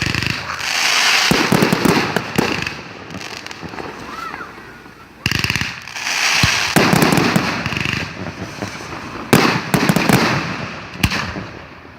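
Fireworks going off: about six sharp bangs, spaced unevenly, each followed by stretches of crackling, with a quick rattle of reports about five seconds in.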